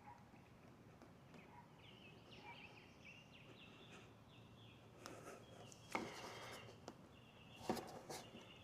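Near silence, with faint short high chirps in the first half, then a few soft knocks and taps in the second half.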